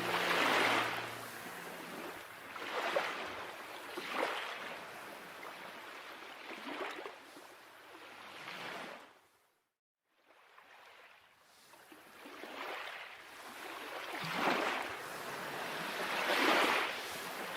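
Water waves washing in, a surging hiss that swells and fades every couple of seconds, broken by a brief total silence about ten seconds in.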